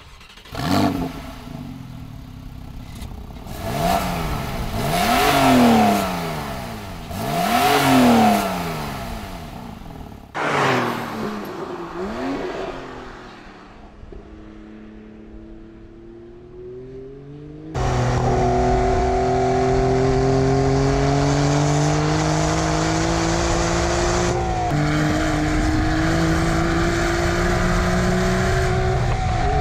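2017 Porsche 911 Carrera GTS's turbocharged 3.0-litre flat-six exhaust: a sharp rev about a second in, then two big free revs that rise and fall, and a shorter blip. After that comes a quieter stretch with a slowly rising engine note. Then there is a sudden cut to the engine heard close and loud under load, its pitch climbing slowly and broken by gear changes about two thirds through and near the end.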